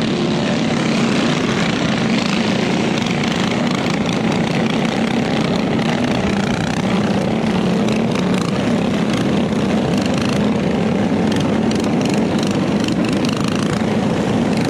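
Small motorbike engine running steadily with a buzzing drone, holding about the same pitch throughout without big revs.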